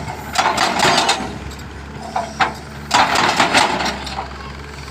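Hydraulic breaker hammer on a Kato excavator chattering in two short bursts, about half a second in and again about three seconds in, over the steady running of the excavator's diesel engine.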